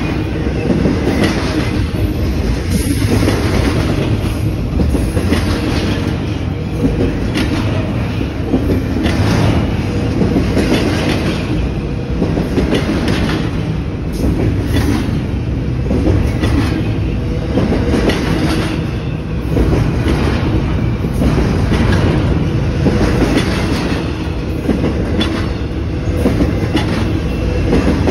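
Intermodal freight train's double-stack well cars rolling past, loud: a steady rumble of wheels on rail, with a regular clickety-clack about every second or so as the wheel sets cross rail joints.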